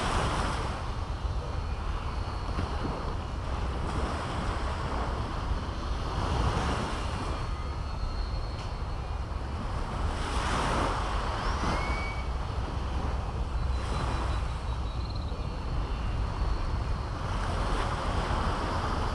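Small sea waves breaking on a beach, a rush of surf swelling about every three to four seconds over a steady low wind rumble on the microphone. A few faint bird calls sound in the middle.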